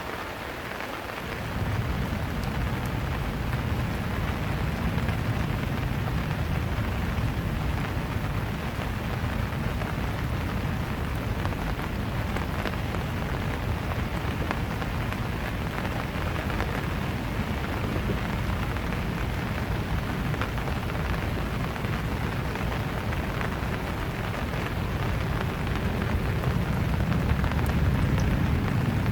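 Steady rain falling and pattering on surfaces, with a deep low rumble that comes in about a second and a half in and swells slightly near the end.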